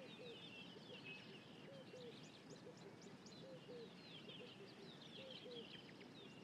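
Faint chorus of wild birds: many quick high chirps and whistles, with a lower short note repeating irregularly underneath.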